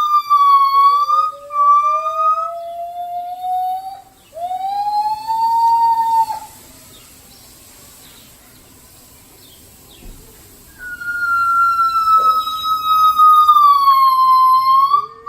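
Gibbons calling in long, whistle-like hoots: a high note sliding slowly down while lower notes rise, two voices overlapping. The calls break off for about four seconds mid-way, then a new long high note starts.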